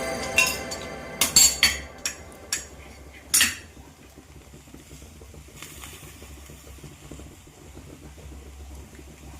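Kitchen utensils and dishes clinking: about six sharp knocks in the first three and a half seconds, then only a faint low hum.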